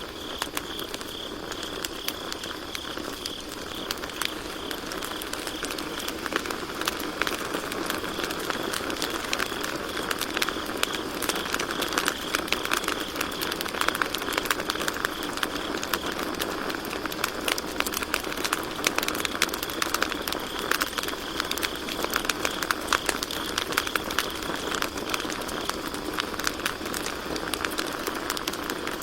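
Campfire crackling with frequent sharp pops, which grow denser about a third of the way in, over a steady chorus of crickets chirping.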